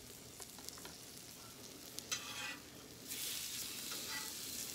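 Chopped vegetables and chicken sizzling on a hot flat-top griddle. About two seconds in, a metal spatula clicks and scrapes briefly on the griddle, and the sizzle gets louder about three seconds in.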